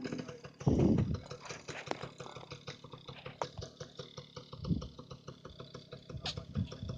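Dirt bike engine idling, heard as a fast, even ticking, with a few low thumps, the loudest about a second in.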